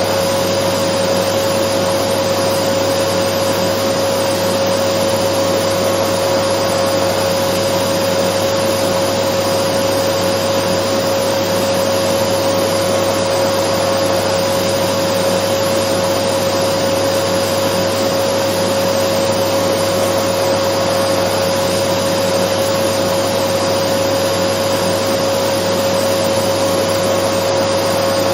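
Dyson vacuum cleaner running steadily as white noise: an even rushing hiss with a constant high whine, unchanging throughout.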